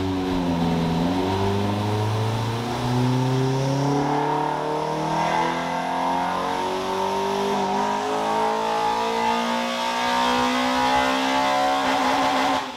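Toyota 2ZZ-GE 1.8-litre four-cylinder under load on a hub dyno, its revs climbing slowly and steadily through a ramp run before cutting off abruptly near the end. The run ends at about 4,700 rpm on a misfire that the owner puts down to cracked ignition coils, with sparks probably escaping through the cracks.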